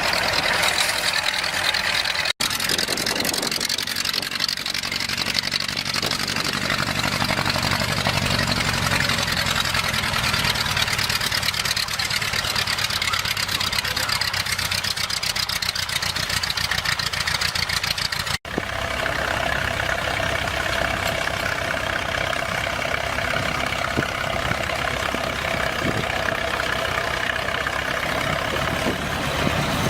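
Vintage tractor engine running steadily, its firing pulses heard as an even chugging. The sound drops out for an instant twice, about two seconds in and again past the middle, and the engine tone changes after each break.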